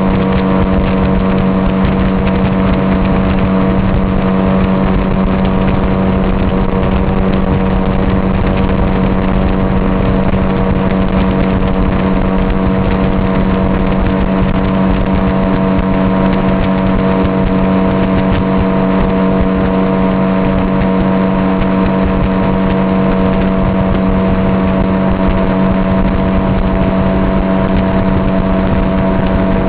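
Motorboat engine running steadily at cruising speed on the way across the lake, a constant hum of unchanging pitch over a continuous rushing noise.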